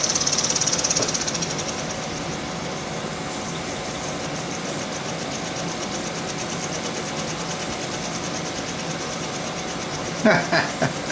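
1921 Empire B30 toy live steam engine running steadily, with a fast, even chuffing beat. A high hiss is strong for the first second and a half, then fades as the running settles a little quieter.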